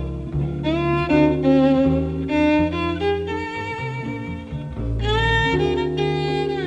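Live jazz violin playing a melody with vibrato and sliding notes, over acoustic guitar and double bass accompaniment.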